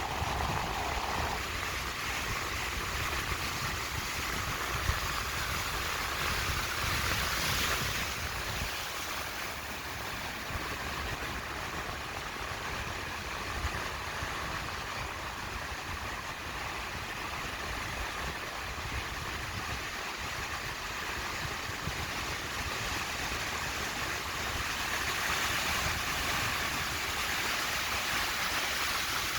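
Sea surf washing onto a beach: a steady wash of breaking waves, with louder surges about seven seconds in and again near the end.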